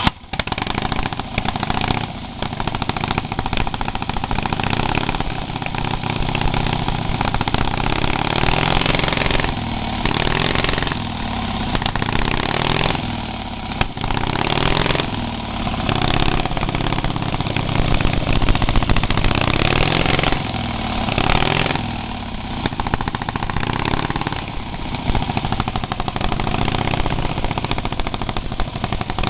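Freshly rebuilt 1911 Harley-Davidson V-twin engine on open straight pipes, catching right at the start and then running through its first run-in. Its speed rises and falls again and again, and it runs a little rough and raunchy.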